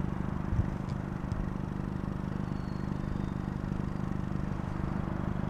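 A vehicle engine running steadily at idle, with a single thump about half a second in.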